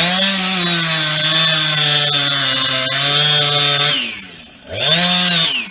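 Chainsaw held at full throttle for about four seconds, its pitch sagging slightly as it cuts into eucalyptus, then dropping to idle. It is revved again briefly about a second later.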